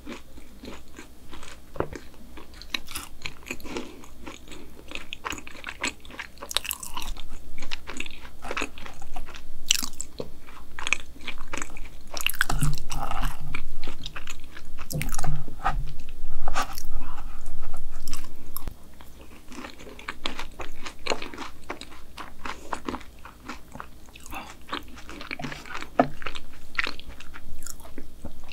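Close-up chewing of a double chocolate chip brownie: soft, sticky mouth clicks and smacks. About halfway through, a fork works black sesame ice cream onto a brownie.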